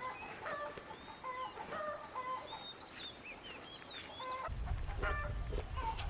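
Chickens clucking, with small birds chirping higher up. A low rumble comes in about four and a half seconds in.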